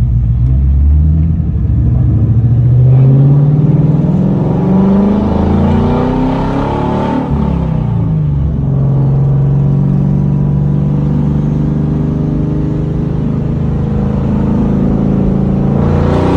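2004 Ford Mustang GT's 4.6-litre V8 running through a straight-piped exhaust while driving. The revs climb over the first few seconds, fall away about seven seconds in, then hold steady before rising again at the very end.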